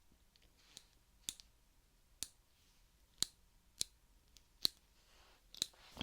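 Nipper pliers snapping shut, about seven sharp clicks, roughly one a second.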